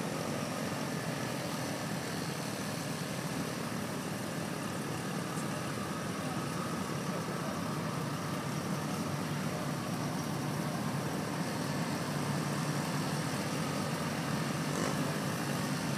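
A line of antique cars driving slowly past one after another, their engines running steadily at low speed; it grows a little louder near the end as two 1920s-era cars pass close.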